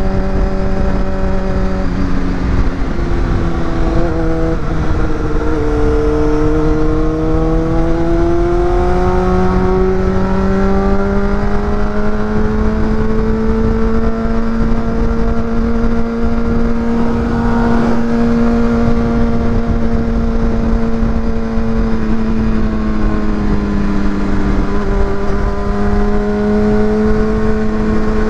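Honda CBR600RR's inline-four engine heard onboard while riding at steady road speed, over a low rushing noise. The engine note drops in pitch a couple of times in the first few seconds, climbs slowly through the middle, dips about two-thirds of the way through and rises again near the end.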